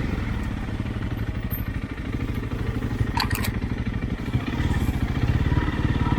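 Single-cylinder dual-sport motorcycle engine running at low speed while riding over branches off-road, with revs and loudness rising about four and a half seconds in. A short sharp clack about three seconds in.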